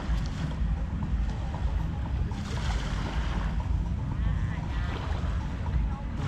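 Wind buffeting the microphone as a steady low rumble, over the wash of surf on the beach. Faint voices come through about two-thirds of the way in.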